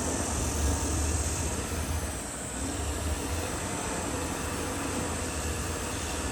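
Caterpillar D6R XL bulldozer's diesel engine running under load with a steady low rumble and a broad mechanical hiss.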